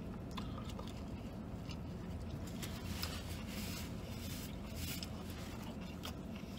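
A mouthful of fried chicken sandwich being chewed, with faint rustling of a paper napkin and wrappers, over a steady low hum.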